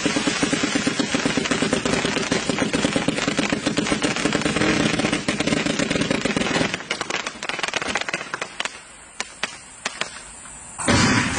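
A 1088-shot firework cake firing rapid, continuous volleys of launch thumps and crackling pops, which thin out to a few scattered pops about seven seconds in. Near the end a loud, steady hiss starts abruptly.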